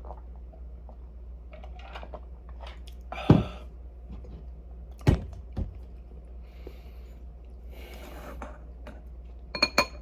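Tableware being handled on a table: a few separate knocks and clacks, and near the end two quick ringing clinks like glass or ceramic, over a low steady hum.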